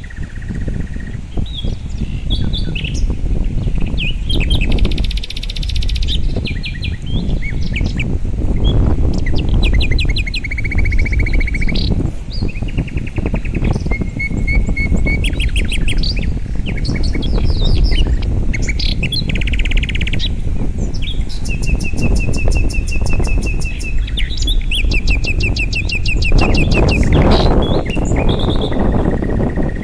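Many small birds chirping and trilling, with several different calls and whistled notes overlapping throughout, over a steady low rush of river water.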